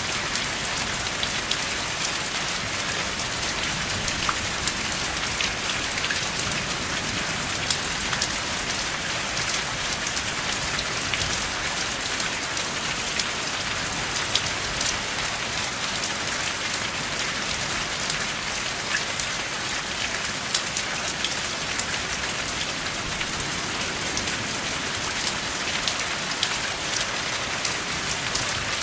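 Steady rain, with many sharp individual drop impacts ticking through the hiss and no thunder.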